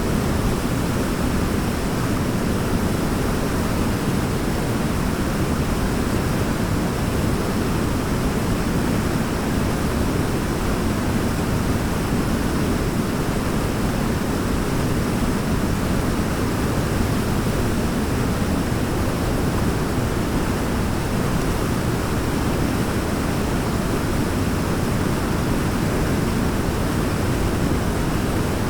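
Waterfall pouring steadily: a constant, even rush of falling water, heaviest and deepest in tone, with no changes.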